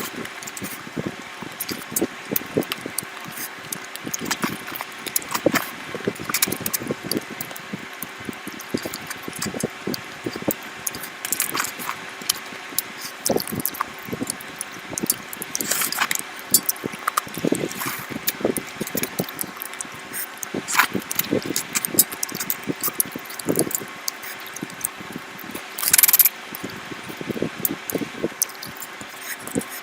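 Close-up eating sounds of curry being eaten: an irregular stream of chewing and wet smacking clicks, with one louder, longer noisy burst near the end, over a faint steady hum.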